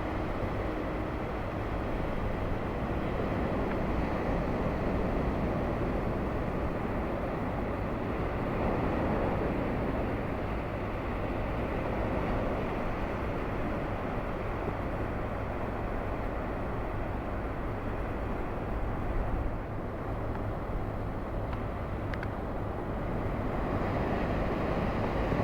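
Steady ocean surf with wind rumbling on the microphone.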